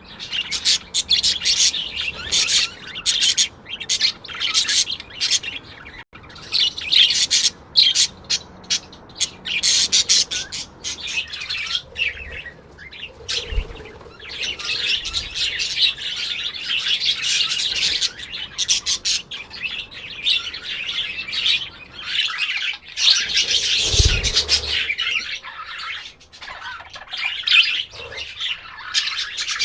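A flock of parrots chirping and chattering, with many quick high calls overlapping almost without pause. Two brief low thumps come in the middle and later on.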